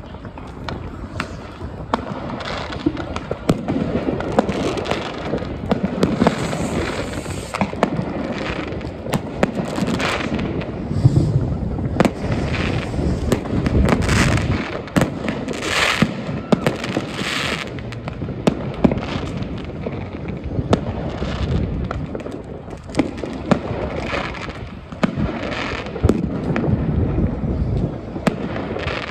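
New Year's Eve fireworks going off without a break: many overlapping cracks and bangs from rockets, firework batteries and firecrackers over a steady rumble and crackle, with a denser spell of crackling bursts about halfway through.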